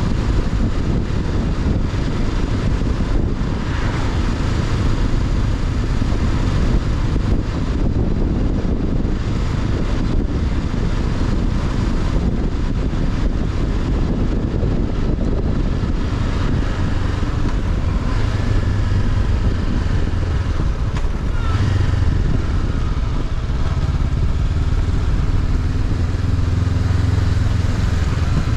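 Honda CB500X's parallel-twin engine running under way, heard onboard with wind and road noise, its engine note shifting a few times in the second half.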